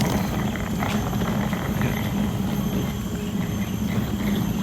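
A steady low rumble with a fluttering, uneven texture and no clear pitch or rhythm.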